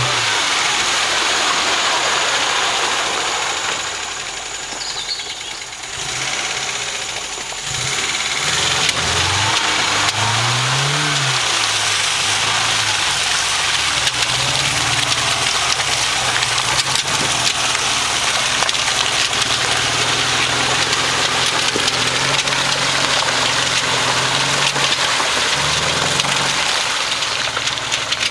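Engine of a Moskvich car converted into a monster truck on big tractor tyres, driving through deep mud: the engine note rises and falls several times and holds steady through a long middle stretch, with a constant hiss over it.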